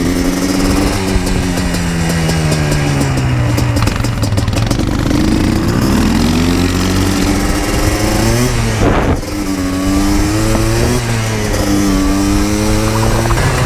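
Yamaha Blaster 200's single-cylinder two-stroke engine under way, its pitch falling and rising as the rider works the throttle through the gears. The throttle dips briefly about nine seconds in.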